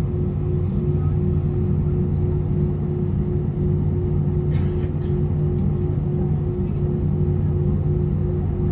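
Airbus A320 cabin noise on the ground before takeoff: a steady low rumble with a constant hum under it, not changing in level. A faint click about halfway through.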